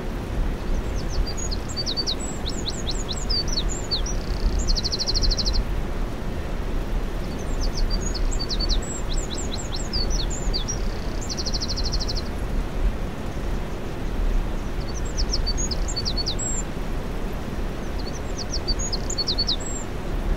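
Wren singing: four phrases of quick high whistled notes, the first two each ending in a fast buzzy trill, over a steady low background rumble.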